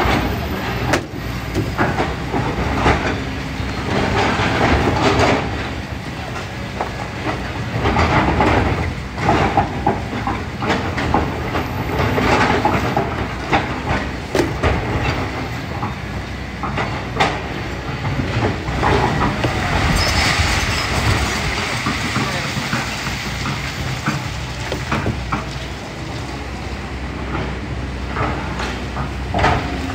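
Kobelco SK200 excavator's diesel engine running steadily under load as the bucket digs through sand, gravel and rock, with repeated knocks and clatter of stones against steel. A rushing noise of spilling material about twenty seconds in.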